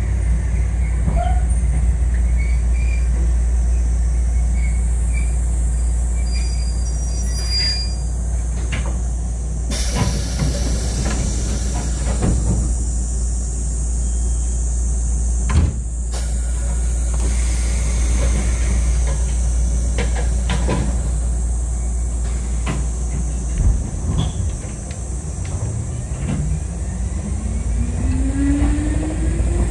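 Kotoden 1080/1100 series electric train standing at a station with a steady low rumble and scattered clicks, then pulling away: over the last few seconds the traction motor whine rises steadily in pitch as the train accelerates.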